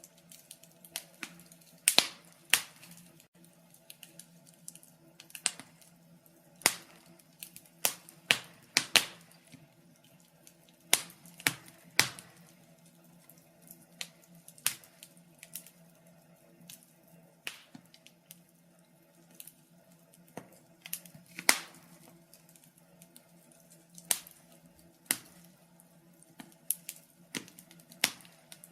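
Wood fire crackling: irregular sharp pops and snaps, sometimes several in quick succession and then a pause of a second or two, over a faint steady low hum.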